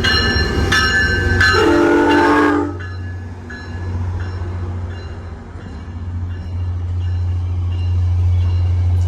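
A train's horn sounds one short chord blast about a second and a half in, over a bell ringing steadily about once every 0.7 seconds that carries on more faintly afterwards. A steady low engine hum runs underneath.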